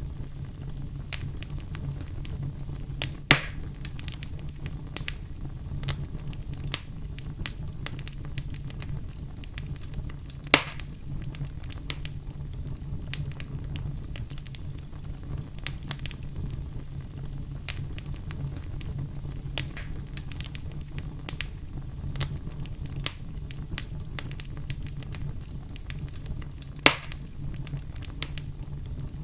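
Wood fire in a fireplace burning steadily, with a low rumble and scattered soft crackles; three louder sharp pops stand out, about three seconds in, near the middle and near the end.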